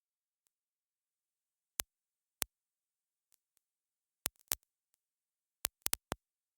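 Dead silence broken by about eight sharp, isolated clicks at uneven intervals, several bunched together near the end.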